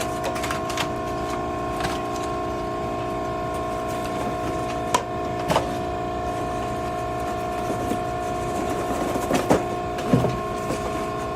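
Hydraulic power unit of a Maren cardboard baler running with a steady, even whine, with a few sharp knocks and clatters about halfway through and again near the end.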